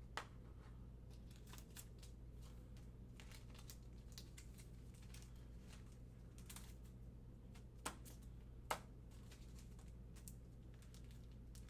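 Faint rustles and soft clicks of trading cards being handled and set down, with three sharper clicks: one just after the start and two close together about eight and nine seconds in.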